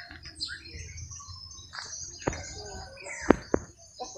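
Birds chirping continuously, with a few sharp clicks about two and three seconds in.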